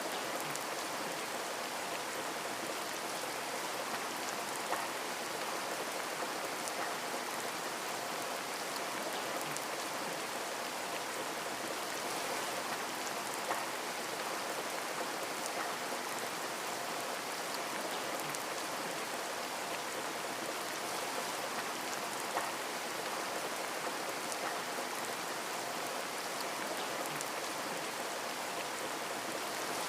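Steady rain pattering on a window pane, an even hiss of drops with scattered louder individual drop ticks.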